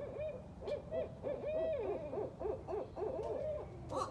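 Several barred owls hooting back and forth in a rapid run of short, overlapping hoots, like call and response.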